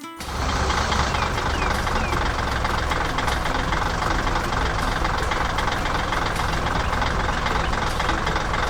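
Heavy diesel machine engine running steadily with a dense mechanical clatter, cutting in abruptly at the start.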